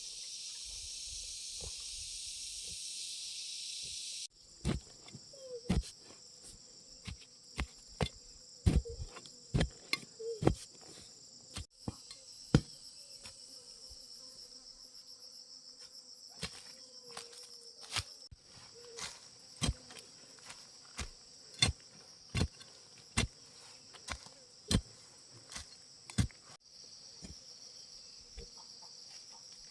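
Insects trilling in a steady high chorus, with repeated sharp knocks roughly once a second from about four seconds in; the knocks are the loudest sounds.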